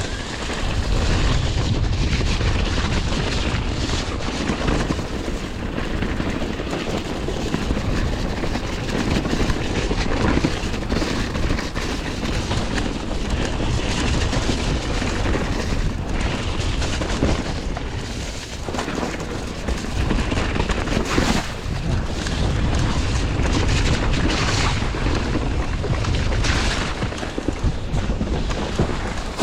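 Mountain bike ridden down a muddy woodland trail: a steady rush of wind rumbling on the microphone, with tyre noise and scattered knocks from the bike over rough ground.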